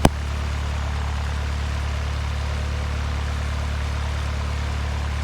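Cessna 172 Skyhawk's piston engine idling steadily on the ground, a constant low drone, with a single sharp click at the very start.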